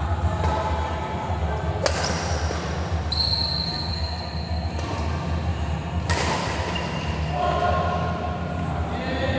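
Two sharp hits about four seconds apart, with a brief high squeal between them, over a steady low rumble.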